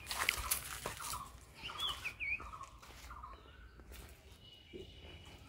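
Birds calling: short calls repeated every second or so, and a pair of quick up-and-down chirps about two seconds in. A few sharp knocks, like footsteps on debris, come in the first second or so.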